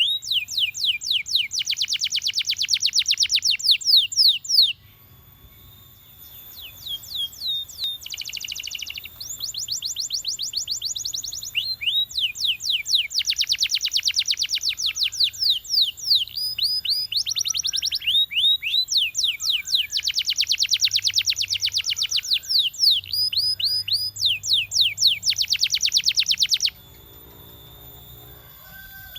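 Canary singing: phrases of fast trills made of rapidly repeated down-slurred notes, broken by a short pause about five seconds in and falling quieter near the end.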